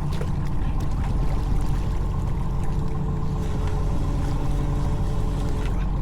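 A fishing boat's engine running steadily, a constant low hum with a droning pitched tone.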